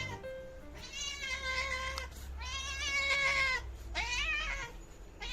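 A domestic cat meowing three times: two longer, drawn-out meows and a shorter one near the end.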